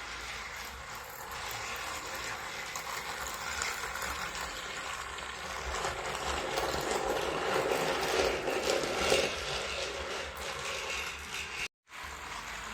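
Small battery-powered motor and plastic gears of a motorized Thomas & Friends Ashima toy engine running along plastic track, a steady whirring clatter that grows louder toward the middle. The sound cuts out briefly near the end.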